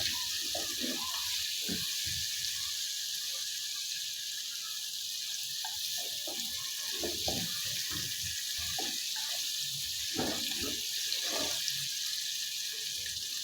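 Chicken pieces frying in hot oil with spices, a steady high sizzle, with scattered short soft knocks.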